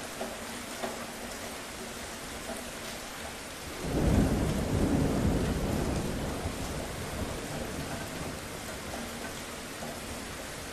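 Steady rain falling, with a roll of thunder that comes in suddenly about four seconds in, rumbles low for a few seconds and fades away.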